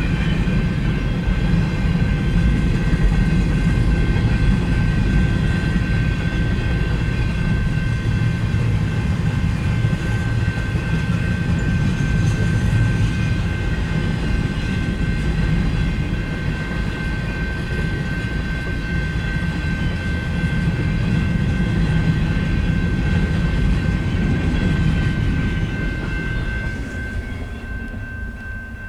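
Manifest freight train cars rolling past, a steady rumble that fades away over the last few seconds as the train passes.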